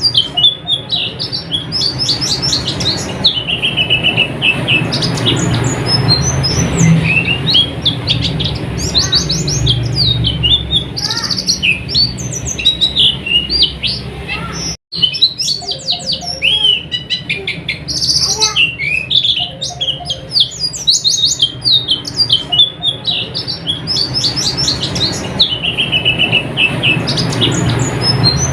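White-eye (pleci) birdsong: rapid, high twittering chirps and trills, repeating continuously and loud, with a momentary cut to silence about halfway through.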